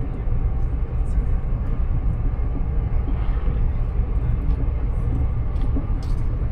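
Steady low rumble of a passenger train heard from inside the carriage, with a few faint clicks and knocks over it.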